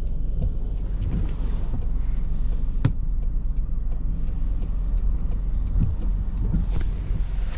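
Steady low rumble inside a car's cabin, with one sharp click about three seconds in.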